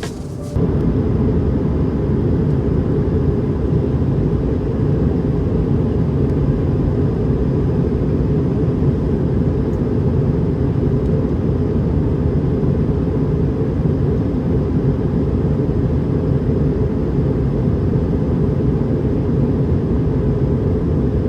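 Steady in-flight cabin noise of an Airbus A220-300 airliner: the rumble of its engines and airflow heard from a seat inside the cabin, cutting in abruptly about half a second in.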